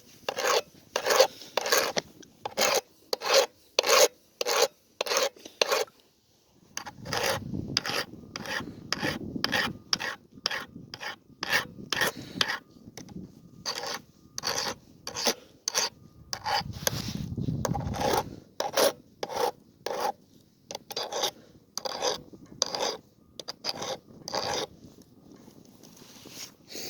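Hand file rasping across the teeth of a chainsaw chain, metal on metal, in quick even strokes about two a second, with a short pause about six seconds in.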